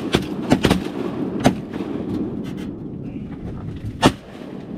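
Shotguns firing at ducks: a quick volley of blasts in the first second and a half, then one more loud shot about four seconds in.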